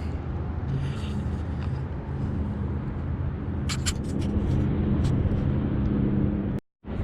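Steady low engine rumble with a humming drone, a few sharp clicks about four seconds in, and a brief dropout to silence near the end.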